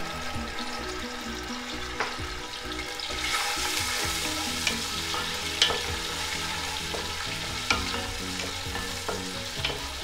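Ginger-garlic paste frying in hot oil with whole spices and green chillies, sizzling steadily while a wooden spatula stirs it around the pot, with a few sharp taps of the spatula against the pot.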